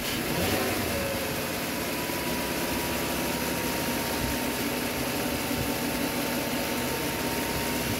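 Volkswagen car engine idling steadily under the open hood with the air conditioning running, its high- and low-side pressures reading normal after a refrigerant recharge. A faint steady whine sits above the engine noise.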